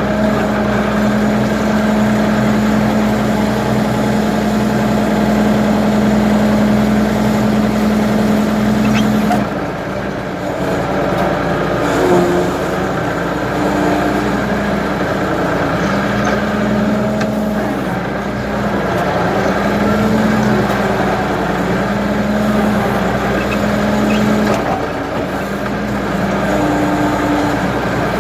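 Ford 550 backhoe's engine running. Its note holds steady at first, then from about a third of the way in dips and comes back up several times.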